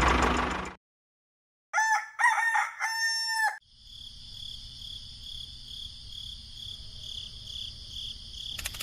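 A rooster crows once, about two seconds in, a single pitched call in a few linked parts that holds steady and then drops away. Before it a machine noise cuts off abruptly, and after it a steady high-pitched whine continues, with a rattling starting near the end.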